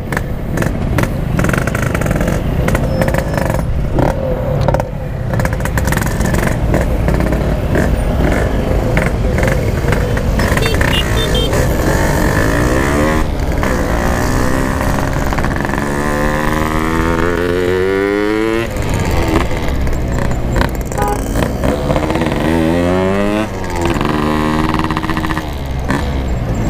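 Yamaha RX-King two-stroke motorcycle being ridden, a steady engine and wind rumble, with the engine note sweeping up and down in pitch as it revs through the middle and again near the end.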